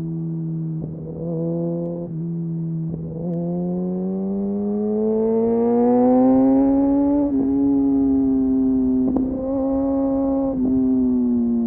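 Kawasaki Ninja motorcycle engine running through an Arrow exhaust with the dB killer removed, under way. Its revs rise briefly about a second in, climb slowly to a peak about seven seconds in, drop, rise again briefly near nine seconds, then fall away near the end.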